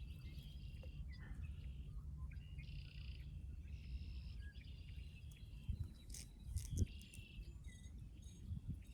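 Outdoor ambience: short trilled animal calls repeating every second or so, over a low steady rumble, with a single knock about seven seconds in.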